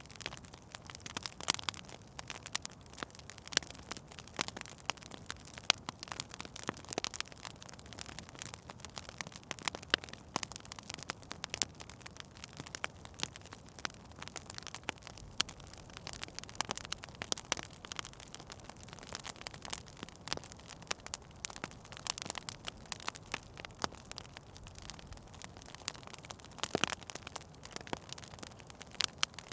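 Wood fire burning in a fireplace, with a steady soft hiss and irregular crackles and sharp pops from the burning logs.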